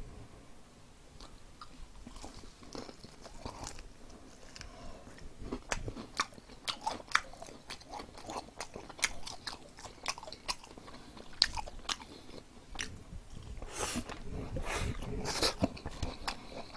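Close-up crunching and chewing of crispy fried chicken with a perilla-leaf batter: a dense run of sharp crackles from the bites, getting busier after the first couple of seconds.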